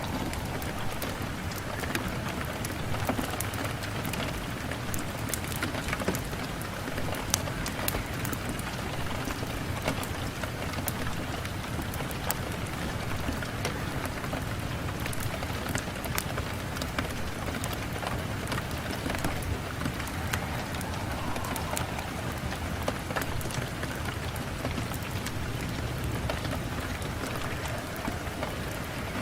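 Steady rain falling on a window pane, a constant hiss dotted with many sharp drop ticks.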